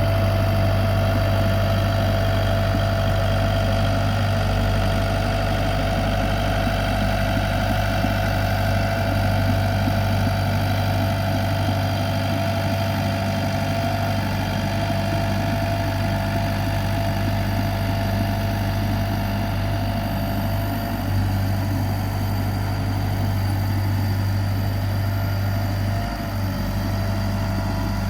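Komatsu PC75 excavator's diesel engine running steadily, a deep even hum with a thin steady whine above it.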